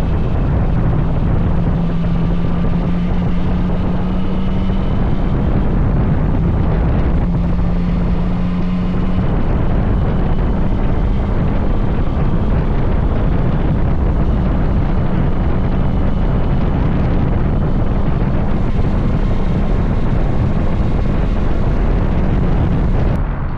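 Yamaha Tracer 900's three-cylinder engine with an Arrow aftermarket exhaust, running steadily under way, its pitch creeping up slightly over the first few seconds. Heavy wind rushes over the microphone throughout.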